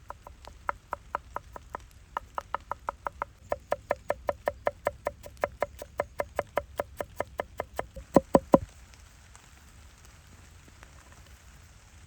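A knife chopping on a wooden cutting board in quick, even strokes, about four or five a second. It ends with a few harder chops after about eight seconds and then stops.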